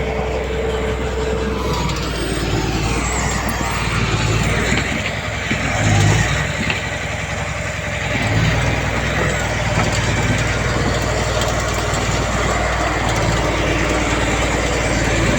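Diesel engines of heavy earthmoving machinery running steadily under work, with a thin steady whine over the first couple of seconds and a brief swell in loudness about six seconds in.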